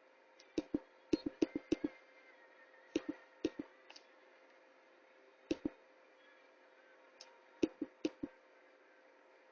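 Sharp knocks in irregular clusters over a faint steady hum. A quick run of about six comes about a second in, a few more follow around three to four seconds, a pair comes a little past halfway, and four more come near the end.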